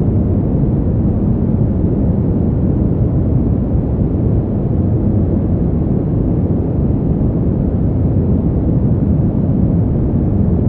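Steady, deep winter wind noise: an even, low rumble with no gusts, breaks or distinct events.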